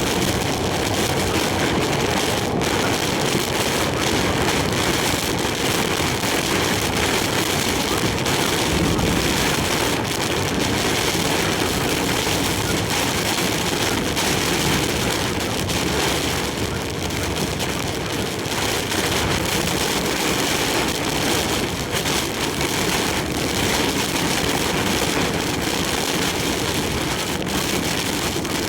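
Heavy typhoon rain and strong wind beating on a moving large truck, a dense steady rush peppered with many small rain hits over the engine and road noise.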